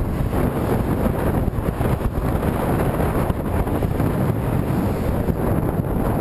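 Strong wind buffeting the camera microphone, a dense rumbling rush that rises and falls unevenly, from moving into a headwind.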